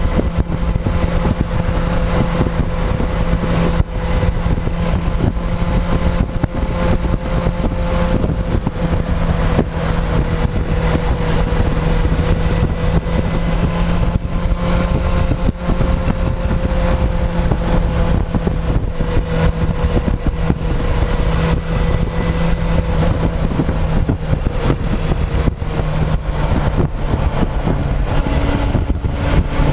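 Motorcycle engine running at a fairly steady speed while riding, heard from a camera mounted on the fuel tank, with wind buffeting the microphone.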